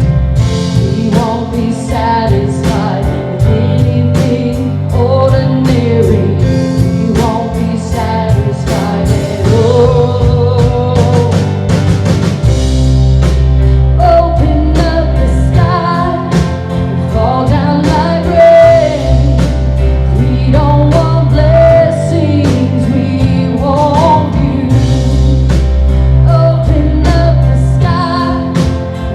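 Contemporary worship music: a band playing a song with a lead singer over a steady beat and bass.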